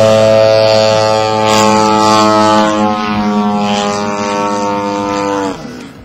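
A loud, steady, low drone-like tone with many overtones, held at one pitch, then fading and dropping slightly in pitch near the end.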